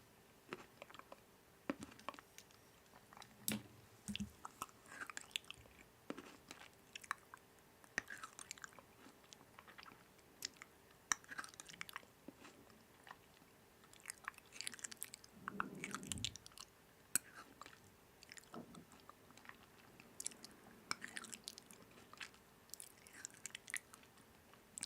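A person biting and chewing crunchy food: faint, irregular crackles and crunches throughout.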